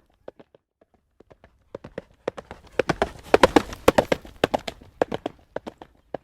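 Horse trotting on a road, hooves clip-clopping on the hard surface. The hoofbeats are sparse at first, grow louder and closer together about halfway through, then thin out toward the end.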